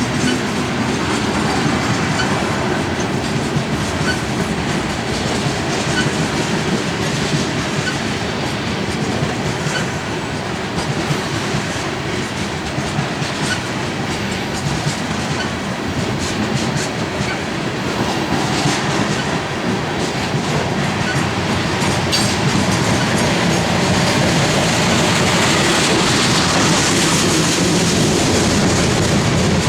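Loaded coal train cars rolling past, steel wheels clicking over the rail joints in a steady rumble that grows somewhat louder near the end.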